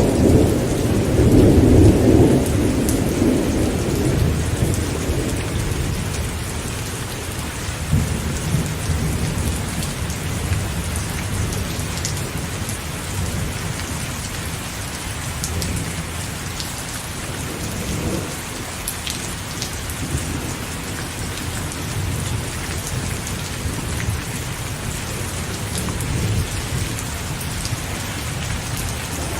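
Steady rain falling, with scattered drops ticking, under rolling thunder. The thunder rumbles loudest in the first couple of seconds, then eases to a softer low roll.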